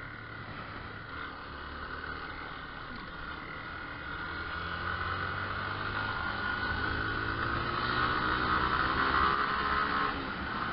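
Motorcycle engine running under way, its pitch rising as it accelerates from about six seconds in, then dropping off suddenly near the end.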